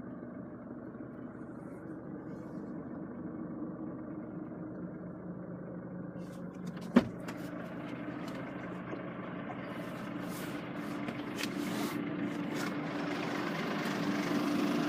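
Chevrolet Orlando's 2.0 VCDI four-cylinder turbo diesel idling steadily, with a single sharp click about seven seconds in. The sound gradually grows louder and brighter over the second half.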